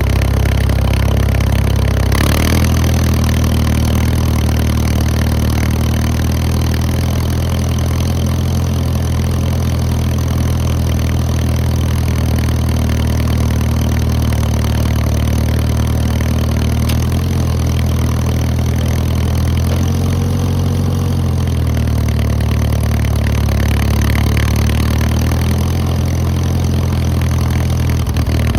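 Case D tractor engine running steadily at low speed while driving, with a brief shift about two seconds in and a wavering in engine note around twenty seconds in.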